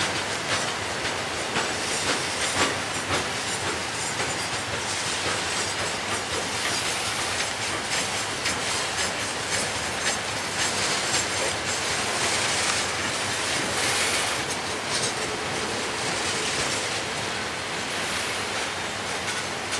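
Railroad flatcars rolling steadily past close by, a continuous rumble of steel wheels on rail with frequent irregular clicks as the wheels cross rail joints.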